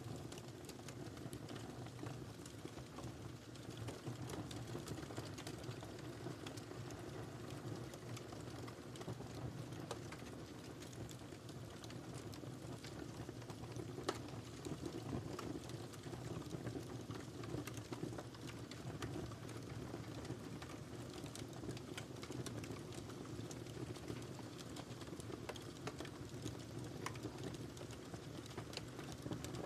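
Fire burning in a fireplace: a steady low rumble of flames under a constant scatter of small crackles, with one louder pop about halfway through.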